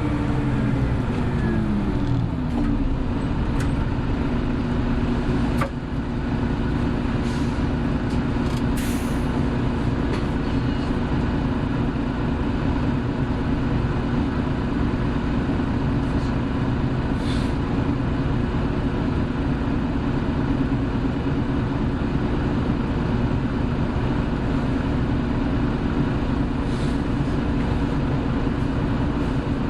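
Hino Blue Ribbon City Hybrid bus heard from inside while driving: the engine note drops over the first couple of seconds as the revs fall, then holds a steady drone. A single click about six seconds in, and brief hisses around nine and seventeen seconds.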